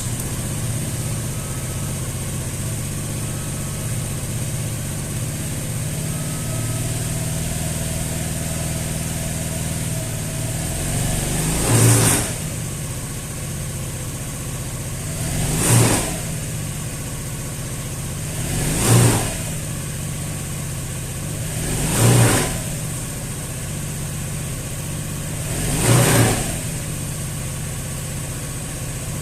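SYM Jet SL 125 scooter's water-cooled single-cylinder engine idling steadily, then revved in five short blips a few seconds apart, each quickly falling back to idle.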